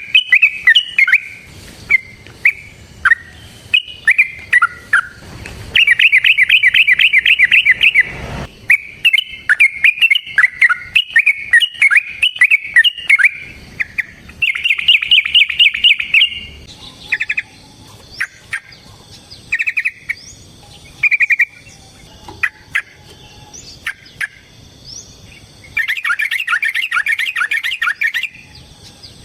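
Yellow-vented bulbul (trucukan) singing loud, bubbly chattering phrases, broken by three long, fast rattling trills, the 'ropel' runs, near the start, the middle and the end.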